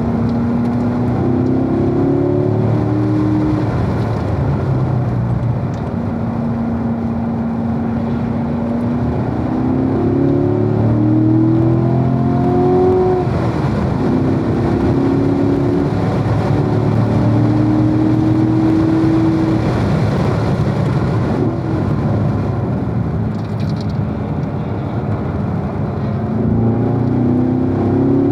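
Corvette V8 engine heard onboard at speed, rising in pitch through several short pulls and shifts and holding a steady note in between, over constant wind and road noise.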